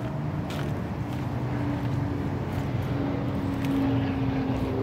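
A motor vehicle engine running, a low steady hum that slowly grows louder.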